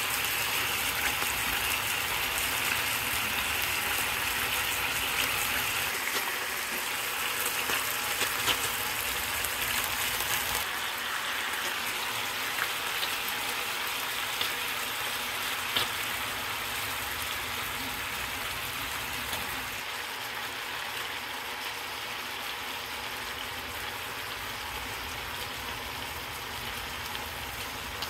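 Chicken thighs sizzling in hot oil in a frying pan: a steady hiss with scattered small pops, growing a little quieter in the second half.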